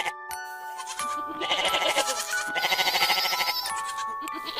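A young goat bleating twice, each bleat quavering, over light background music with chiming mallet notes.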